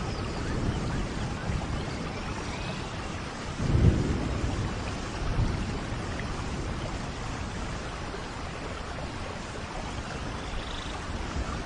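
Rainforest thunderstorm: steady rain with low rumbles of thunder, the loudest about four seconds in and a weaker one about a second and a half later.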